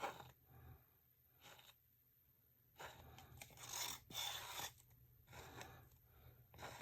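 Faint scraping and rustling of small objects being handled on a work surface, in several short patches with the longest in the middle.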